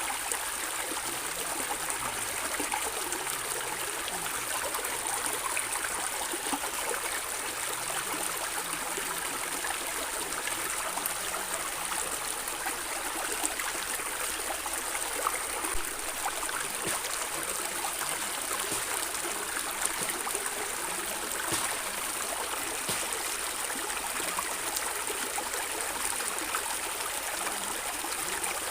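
Stream water gurgling and trickling steadily, a continuous splashing hiss with small scattered droplet clicks.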